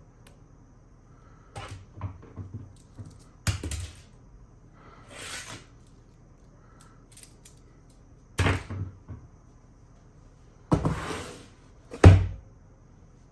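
Hands handling PC parts: a series of knocks and clicks, the loudest about three and a half, eight and a half and twelve seconds in, with short rustling sounds between.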